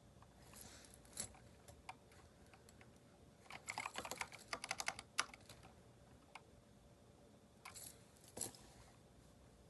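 Typing on a Keychron K4 V2 mechanical keyboard fitted with replacement keycaps: scattered single keystrokes, a quick run of keystrokes about three and a half seconds in, and a few more near the end.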